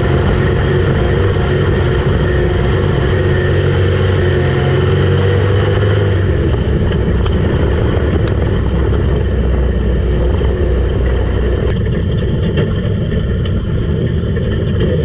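Dirt track street stock race car's engine running hard at racing speed, its note shifting partway through.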